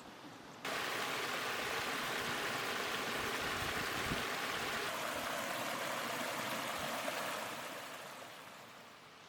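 Stream water rushing steadily. It starts abruptly about half a second in and fades away over the last two seconds.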